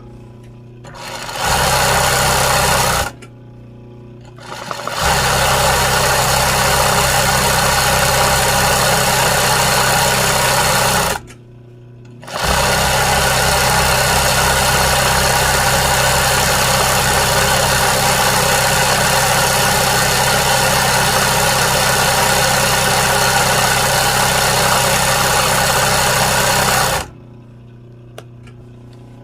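Sewing machine stitching in three runs: one of about two seconds, one of about six seconds, then a long one of about fifteen seconds. Each run starts by spinning up, with a steady motor hum under the rattle of the needle, and stops with short pauses between.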